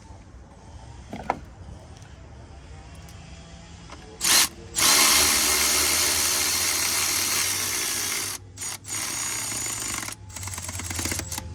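Handheld power driver spinning a fastener in spurts: a short burst about four seconds in, a steady run of about three and a half seconds, then a few shorter bursts near the end.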